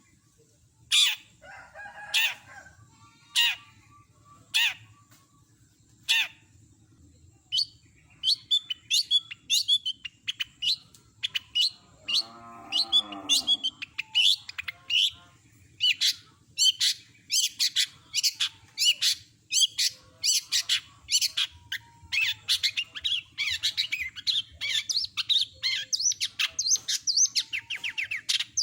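Long-tailed shrike (cendet) singing its mimicking song: sharp, high calls a second or so apart at first, then from about eight seconds in a fast, dense run of varied chattering notes. About twelve seconds in, a lower, drawn-out call sounds.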